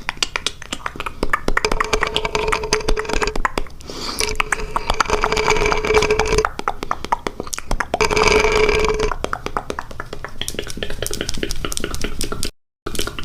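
Close-up ASMR mouth sounds: a dense run of wet clicks and smacks, joined three times by a held steady vocal tone. The sound cuts out for a moment near the end.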